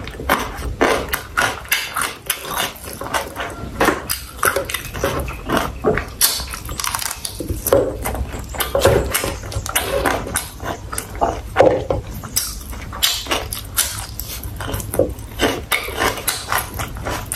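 Close-miked chewing and mouth sounds of someone eating sausage with rice and vegetables: a rapid, irregular run of wet smacks and clicks.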